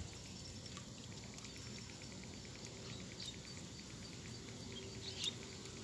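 Outdoor insect chorus: a faint steady run of rapid, evenly spaced chirping pulses, with a couple of short high chirps about three and five seconds in.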